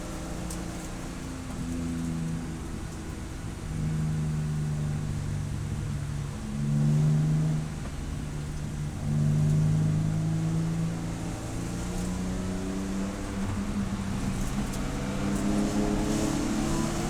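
Race car engine running on track, its note holding steady in stretches of a second or two with short breaks between, then rising near the end as it accelerates.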